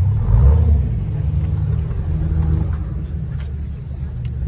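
Dodge Viper's V10 running at low revs with a deep, pulsing rumble as the car pulls away slowly, briefly louder about half a second in.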